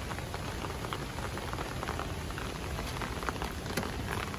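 Steady rain falling, with many small drop hits ticking.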